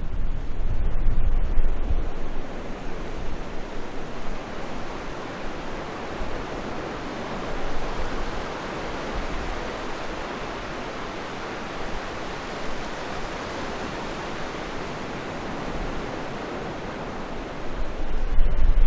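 Steady rushing outdoor noise with no distinct events, with wind rumbling on the microphone in the first two seconds and again near the end.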